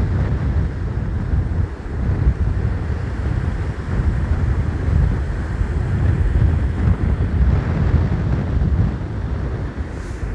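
Strong wind buffeting the microphone in a heavy, gusting low rumble, with stormy sea surf beneath it.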